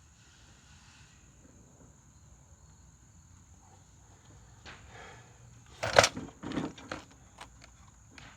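A sharp clank about six seconds in, then several lighter clicks and knocks, as the mower's sheet-metal side chute is handled and fitted into position.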